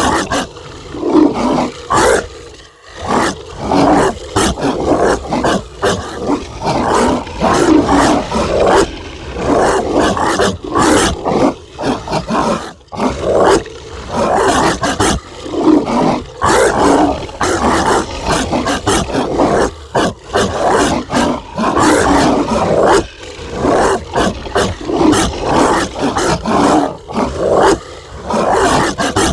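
Zombie dog sound effect: rough, growling barks and snarls following one another with hardly a pause.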